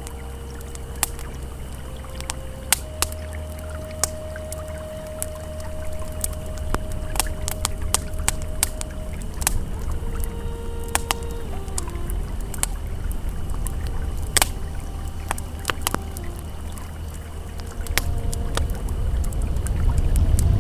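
Campfire crackling with irregular sharp pops over the low, steady rush of a flowing river that swells near the end. Soft held ambient tones sound beneath, stepping slowly from one pitch to another.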